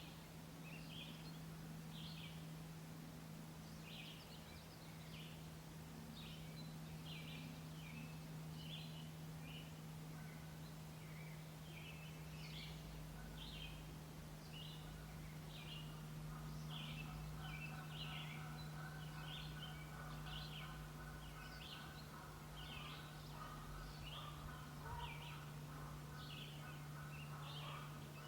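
Wild birds singing and chirping in short, rapidly repeated phrases, over a steady low hum. From about halfway in, a faint distant drone with a low rumble joins in.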